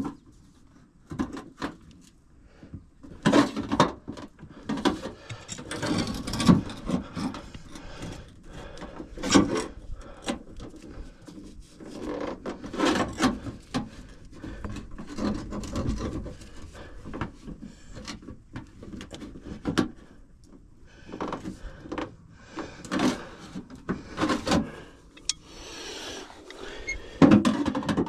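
Copper sheet being bent up by hand along a scored miter line, giving irregular knocks and rubbing of metal against metal.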